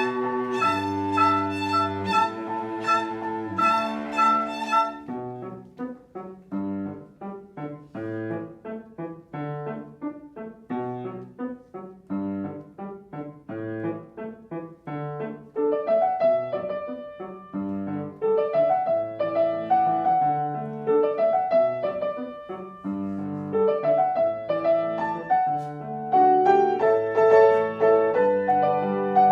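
Live chamber ensemble of piano, bowed strings and woodwinds playing classical music. Held ensemble notes for about the first five seconds give way to the piano in short detached notes, and sustained lines come back in from about halfway, the sound growing fuller near the end.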